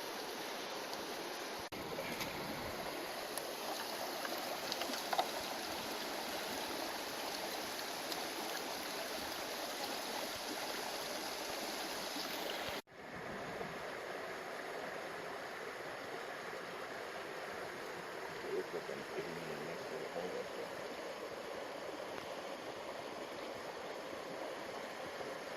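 Steady rush of flowing river water. The sound drops out for an instant about halfway through, then goes on a little softer.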